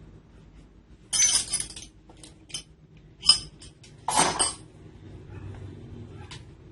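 Short metallic clinks and knocks as a tool is handled, with two brief rattling bursts about a second in and about four seconds in. No motor is running.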